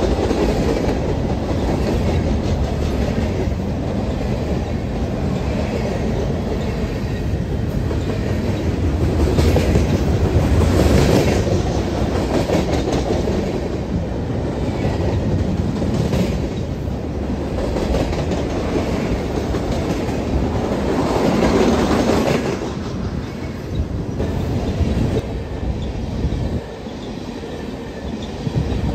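Train cars rolling past, wheels clacking over rail joints in an uneven rhythm above a steady rumble.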